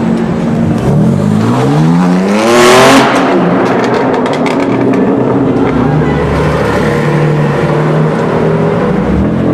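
A supercar engine revs up, its pitch rising for about two seconds to a loud peak. A run of sharp crackles follows, then the engine runs on at a steady pitch.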